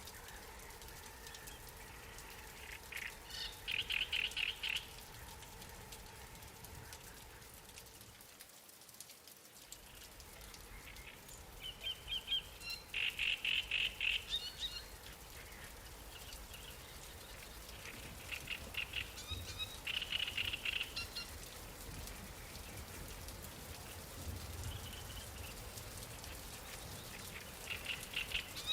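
A small songbird singing short, rapid trills about every eight seconds, four times, over a steady hiss of light rain on water.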